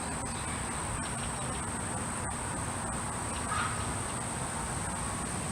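Insects, crickets or cicadas, droning in a continuous steady high-pitched chorus.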